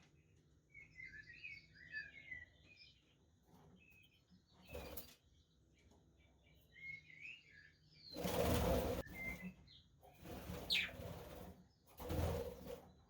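Budgerigars chirping and warbling in short chattering phrases, with four bursts of wing flapping, the longest about a second, in the later part.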